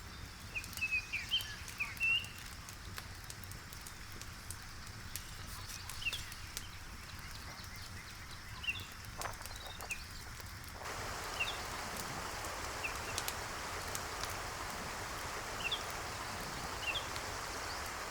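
Birds chirping, with a wood fire crackling in sharp scattered clicks. About eleven seconds in, a steady hiss comes in and holds.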